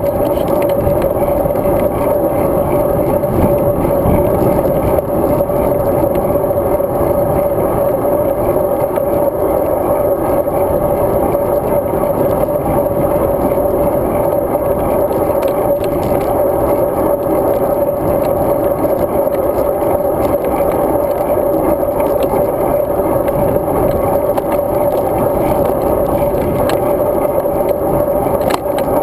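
Road bike in motion, recorded on a GoPro Hero 2: a steady rumble of tyre and road noise with light rattling and a constant hum running under it.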